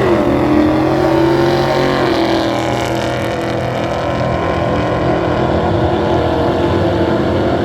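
Drag-racing car engine running loud and steady.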